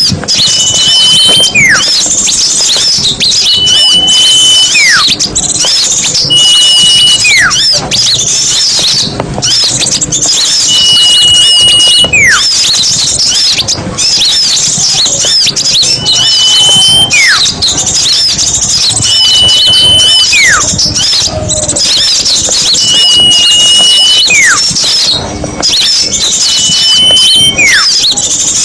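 Bird-lure recording of many small songbirds calling at once in a dense, loud chirping chorus, used to draw wild small birds in for trapping. A clear whistle slides downward every two to three seconds, with short steady high whistles between, repeating evenly like a loop.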